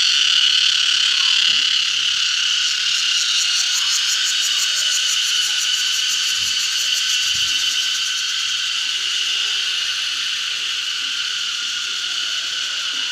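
Cicadas buzzing in a loud, steady chorus, with a faster pulsing trill over it in the middle, the whole slowly easing off a little toward the end.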